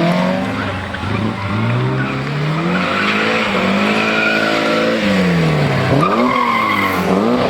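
Historic rally car engine revving hard: the pitch climbs, drops sharply about five seconds in as the throttle lifts, then climbs again. Tyres squeal as the car slides through a corner.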